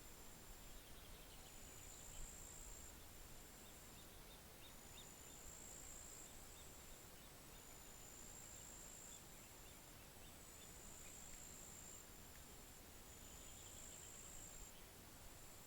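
Faint outdoor ambience: a high-pitched insect trill that comes and goes in stretches of a second or two, with faint scattered chirps and ticks and a low rumble of wind underneath.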